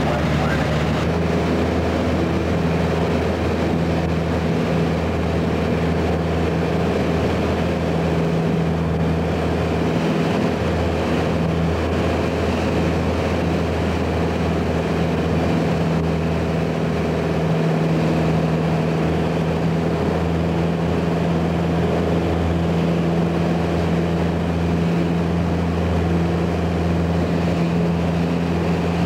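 Light single-engine propeller airplane's piston engine and propeller running steadily at cruise power, a constant drone with a steady low hum and no change in pitch.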